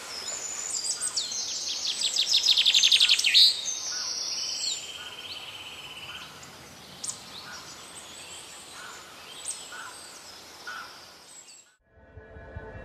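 Songbirds singing. A fast, loud trilled song comes in the first few seconds, then a buzzy trill and scattered chirps and whistles, and the birdsong cuts off suddenly near the end.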